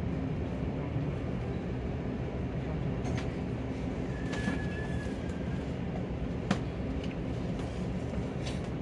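Keisei Skyliner electric train pulling out of the station, heard inside the passenger cabin: a steady low rumble with a few sharp clicks, the loudest about six and a half seconds in.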